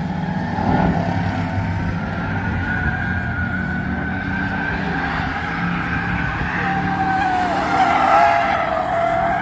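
Bomber-class stock cars racing around a short oval track, engines running steadily, with a drawn-out tire squeal in the second half.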